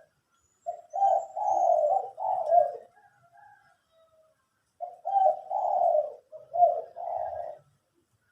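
Dove cooing: two repeated cooing phrases, each of three notes run together, with a few faint soft notes in the pause between them.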